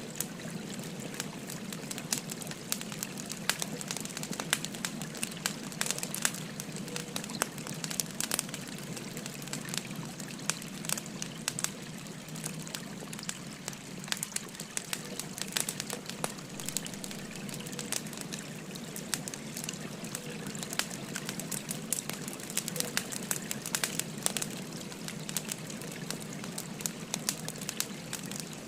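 Wood fire crackling, with frequent sharp pops and snaps, over the steady rush of a gently flowing river.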